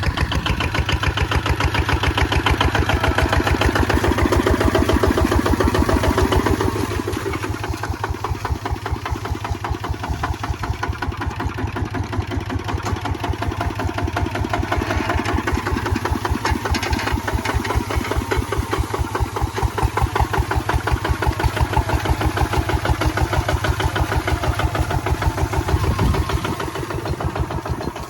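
Kubota ZT155 single-cylinder diesel engine running under load with a rapid, even chug. It eases off slightly about a quarter of the way in and dips briefly near the end.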